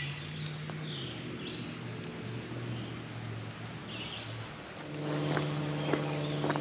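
A motor engine droning steadily, dropping slightly in pitch about a second in, then rising and growing louder near the end, with a few sharp clicks over it.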